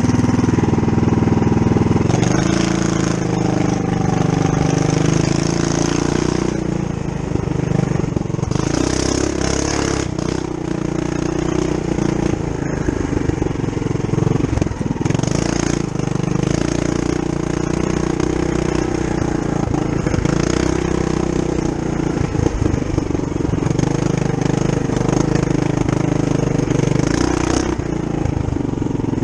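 Mini bike's Tillotson 212cc single-cylinder four-stroke engine, with its governor gear removed, running on a trail ride. The engine speed rises and falls every few seconds as it is throttled up and eased off.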